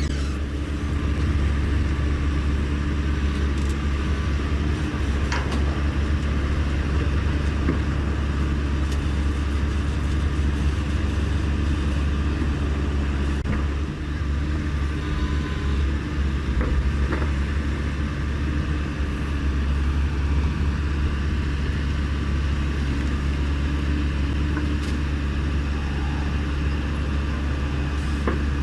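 A vehicle engine running steadily at a constant speed, a low drone.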